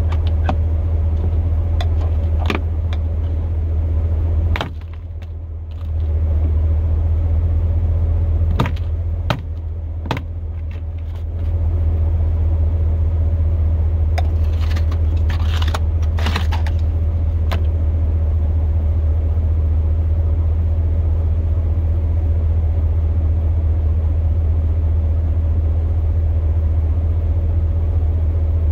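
Pickup truck's engine running with a steady low drone, which dips briefly twice, about five seconds in and again around ten seconds in. Scattered clicks and knocks are heard over it.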